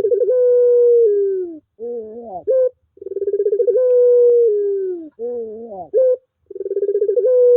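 Puter pelung (ringneck dove) cooing over and over. Each coo opens with a fast fluttering run, holds a long steady note that sags at its end, then ends in a short rising two-part coo. About three of these calls come in turn, one every three seconds or so.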